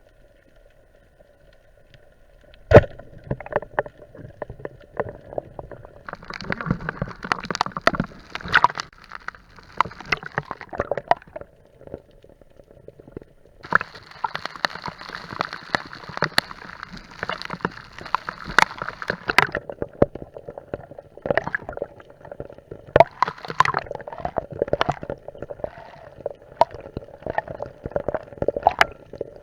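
Water bubbling and gurgling, in long rushing stretches and short splashy bursts with many clicks, over a steady faint hum. A single sharp knock about three seconds in is the loudest sound.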